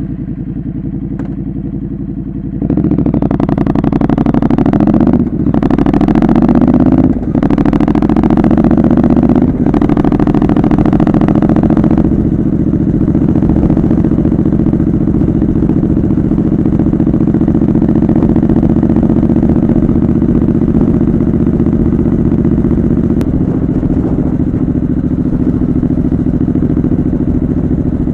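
Triumph Scrambler 900 parallel-twin running through a homemade aftermarket exhaust. It idles just after start-up, then about three seconds in it revs and pulls away, with brief breaks as it shifts up a few times, and it settles into a steady cruise after about twelve seconds.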